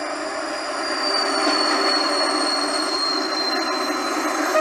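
Freight train of tank wagons rolling past, with a steady rumble of wheels on rails and a high wheel squeal that slowly falls in pitch. The noise grows louder about a second in.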